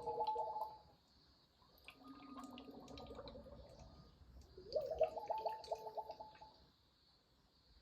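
Dolphin lyre strings swept in three glissandi, each a cluster of ringing notes; the last begins with a rising sweep about five seconds in and rings out by near the end.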